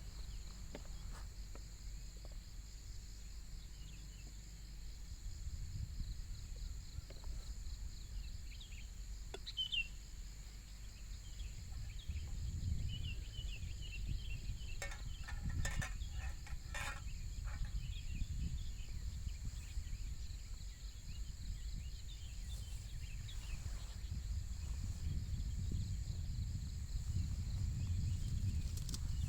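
Outdoor nature ambience: insects trilling steadily on a high pitch, with scattered bird chirps and a louder bird call about halfway through, over a low wind rumble that builds toward the end.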